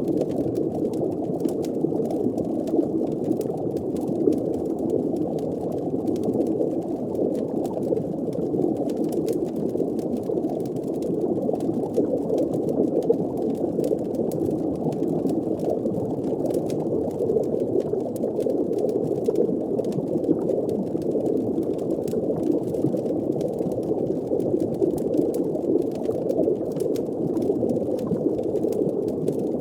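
Steady, muffled underwater ambience: a low bubbling rumble with faint crackles of a fire over it.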